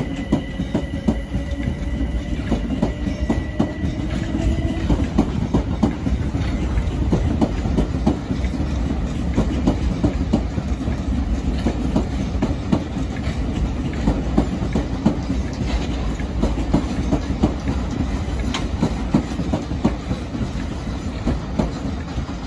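Gatwick Express electric multiple unit running past, its wheels clattering in a dense, irregular run of clicks over rail joints and points above a steady low rumble. A motor whine rises in pitch over the first few seconds and then fades out.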